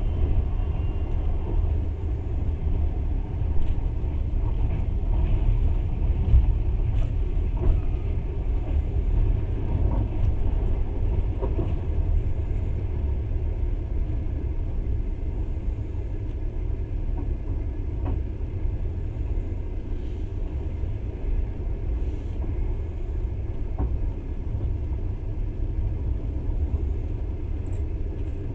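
Passenger train running along the track, heard from on board as a steady low rumble with a few faint clicks.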